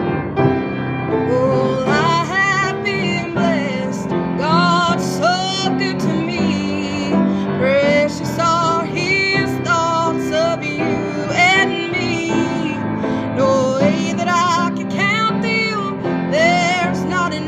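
Slow Christian worship song: a woman's voice singing with vibrato over piano accompaniment.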